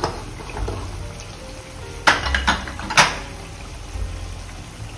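Ginger-garlic paste frying in oil in a nonstick kadai with a steady sizzle, being fried until its raw smell is gone. Two sharp knocks of the wooden spatula against the pan come about two and three seconds in.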